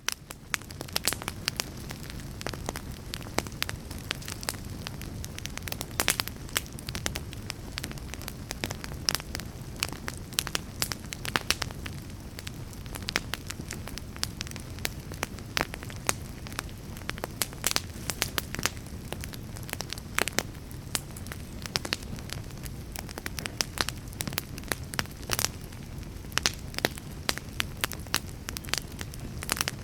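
Wood fire crackling: many sharp pops and snaps, irregular and close together, over a steady low rumble. It rises in at the very start.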